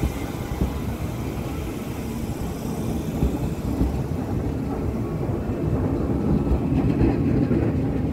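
A TER Grand Est Régiolis electric regional train runs past along the platform: a steady rumble of wheels on rail and running gear that grows louder toward the end as the last car goes by.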